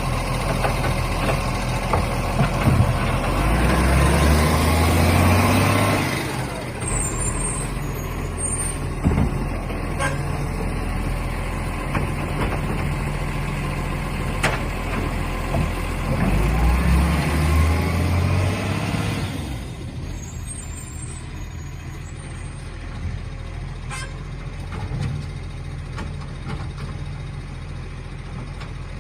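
Garbage truck's diesel engine revving up twice, its pitch rising for a few seconds and dropping back each time, with steadier running in between and a few faint clicks.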